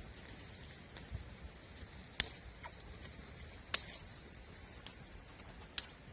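Four sharp cracks or snaps about a second apart over a faint hiss.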